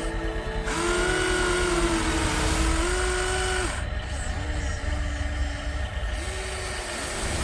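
Small electric motors of a radio-controlled construction model whining, their pitch rising and falling as the throttle changes, with short breaks where the motors stop and start again, over a low rumble.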